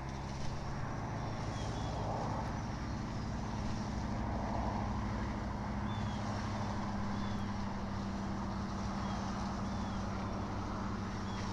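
Steady low rumble and hum of an outdoor nest-camera microphone, with short faint bird chirps repeating every second or two.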